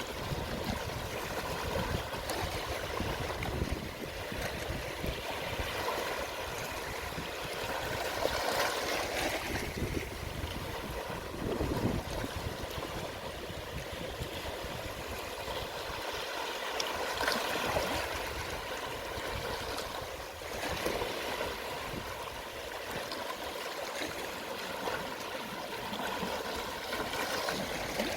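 Gentle waves washing onto a shore at low tide, a steady wash of water with soft swells as each wave comes in.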